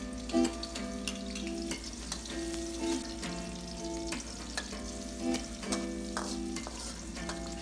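Chopped aromatics and red chilli sizzling in hot oil in a steel wok, a steel spatula scraping and clinking against the pan as they are stirred. Background music plays underneath.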